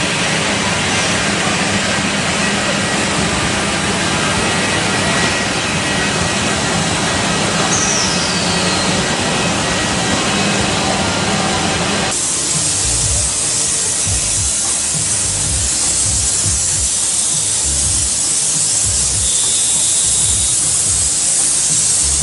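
CNC wood router at work: a loud, dense, steady hiss of machining noise. About halfway through it changes abruptly to a brighter, higher hiss with irregular low thumps.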